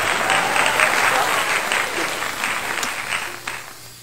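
A quesadilla frying in oil in a pan, a loud crackling sizzle that dies away near the end.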